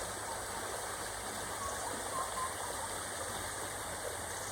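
Steady rushing of a flowing rainforest stream, with a few faint short chirps about halfway through.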